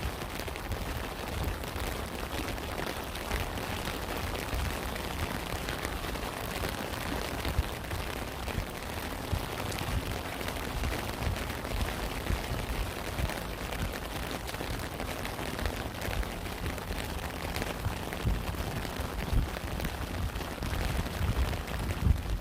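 Steady rain falling, an even hiss with many dull low thumps throughout.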